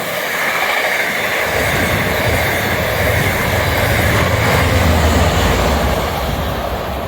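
Train running past close by: a steady rush of wheels on rail with a high hiss and a low rumble that swells toward the middle and eases near the end.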